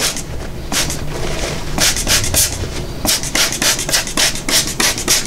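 Plastic squeeze bottle of acrylic paint mix being shaken hard: a rhythmic swishing, a few strokes around two seconds in, then a steady run of about five strokes a second from about three seconds in.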